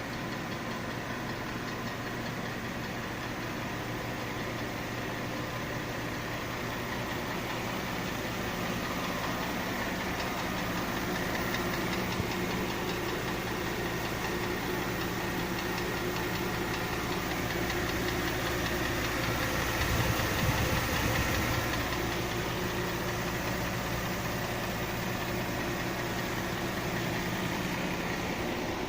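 Mercedes-Benz ML350's 3.7-litre V6 running steadily, with a knock in the engine that has newly appeared. The engine sound swells briefly about twenty seconds in.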